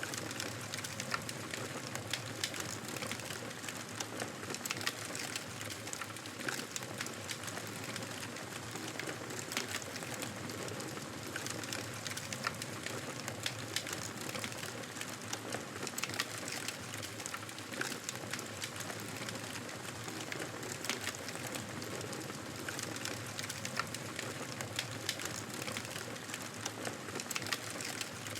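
Campfire burning: a steady soft hiss of flames with frequent sharp crackles and pops from the burning wood.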